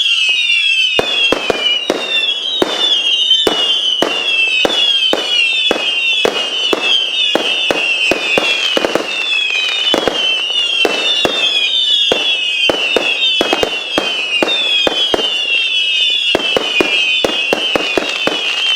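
A firework barrage firing continuously: many overlapping whistles, each falling in pitch, over a rapid, irregular run of sharp cracks and bangs.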